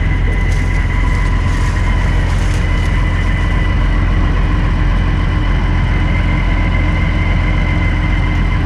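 Combine engine and machinery running steadily, a low rumble with a steady high whine over it.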